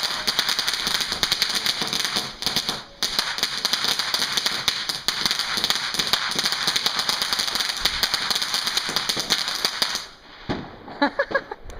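A firework crackling: a dense, rapid run of sharp pops lasting about ten seconds, with a couple of brief breaks near the start, stopping about ten seconds in and followed by a few separate pops.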